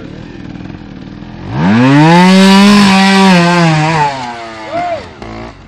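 Trials motorcycle engine revved hard. About a second and a half in, the throttle opens and the pitch climbs quickly, is held high for about two and a half seconds, then drops away, followed by a short blip of throttle.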